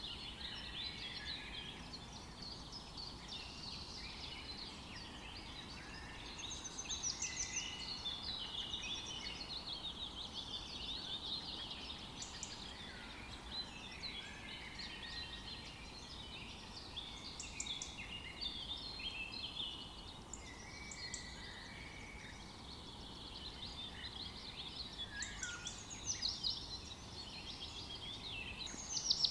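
Several small songbirds singing and chirping at once, an unbroken chorus of quick high warbles and twitters over a faint steady background hiss.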